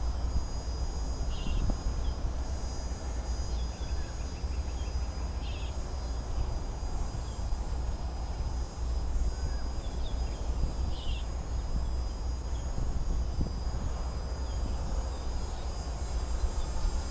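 Wind rumbling on the microphone, with a steady faint high whine and short high chirps from small birds every few seconds.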